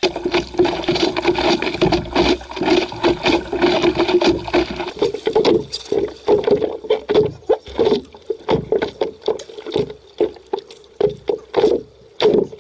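Water splashing and slapping around a stand-up paddleboard in quick, irregular bursts, over a steady hum.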